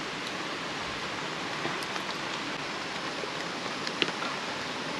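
Steady rainfall: an even hiss with a few scattered, louder drops striking close by.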